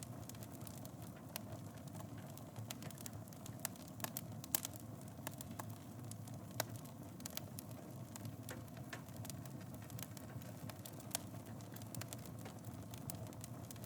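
Fire burning in a fireplace: a steady low rumble with frequent sharp crackles and pops, the loudest pop about four and a half seconds in.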